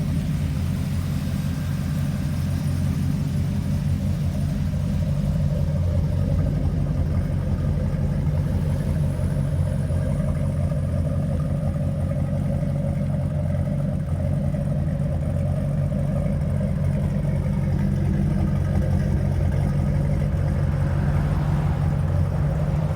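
Ford 460 big-block V8 in a 1946 Mercury M68 pickup idling steadily through a custom exhaust, a deep, even rumble.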